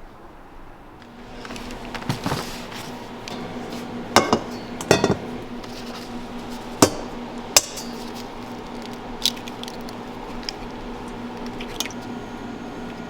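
A series of sharp clinks and knocks of hard objects, irregularly spaced, over a steady low hum that starts about a second and a half in.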